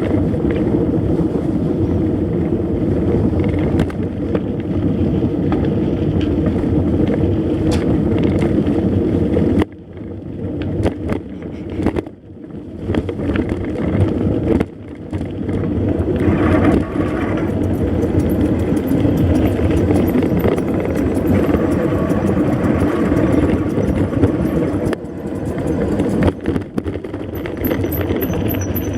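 Steady rushing noise of riding: wind on the microphone with tyre and vehicle noise, dropping away briefly about ten seconds in.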